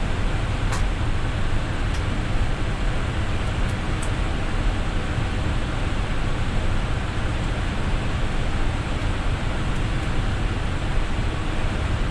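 Steady rushing noise on the flight deck of an Airbus A320neo in flight, the airflow and air-conditioning hiss of the cockpit, with a couple of faint clicks in the first few seconds.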